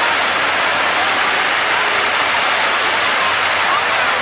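Traditional Mexican castillo fireworks tower burning, its sparking fountains spraying a loud, steady, dense hiss with no single loud bangs.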